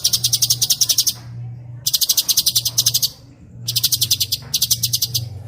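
A songbird's rapid rolling trill of sharp, evenly repeated high notes, about ten a second, sung in four bursts with short breaks between them. It is a fast 'rol speed' song of the kind used as masteran training audio. A steady low hum runs underneath.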